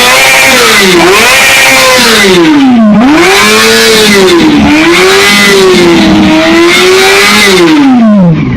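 2008 Yamaha YZF-R6's inline-four engine being revved repeatedly, its pitch swinging up and down several times. It is then held high for a couple of seconds and falls back toward idle near the end.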